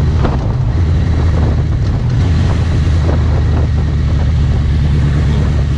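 Steady wind rushing over the microphone while riding a Suzuki GSX650F motorcycle, over a constant low drone from the bike.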